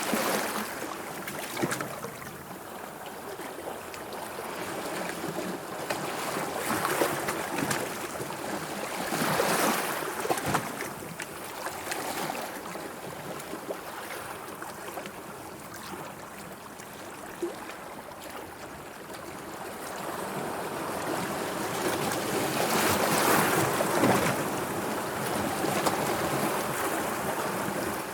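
Sea waves washing and lapping, with small splashes throughout. The water swells up louder about a third of the way in and again near the end.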